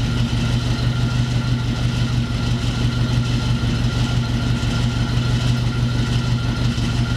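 Forklift engine running steadily at an even speed.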